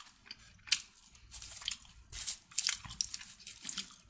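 A person biting and chewing crunchy food close to the microphone: a run of short, crisp crunches coming every fraction of a second.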